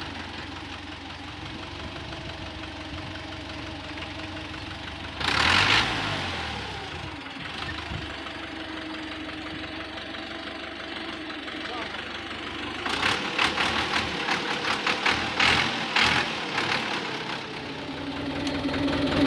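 An engine idling steadily, with a loud hissing burst about five seconds in and a run of rapid crackling bursts in the second half.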